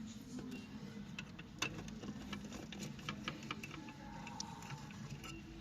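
Irregular light clicks and taps of a laptop being worked on by hand during disassembly or cleaning, over a low steady hum.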